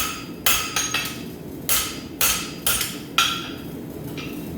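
Blacksmith's rounding hammer striking hot steel on an anvil, about seven irregularly spaced blows with a short metallic ring after each, the last one lighter, as the chamfers on the bar's edges are knocked back in. A steady low rumble runs underneath.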